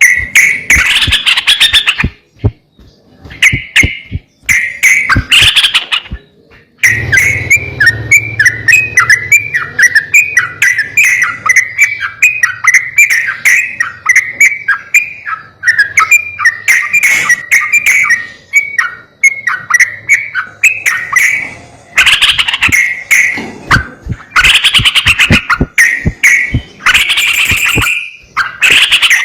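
Yellow-vented bulbul (trucukan) calling repeatedly, played as lure audio. It gives short bursts of bubbly calls, then a long run of quick chattering notes through the middle, then more bursts near the end.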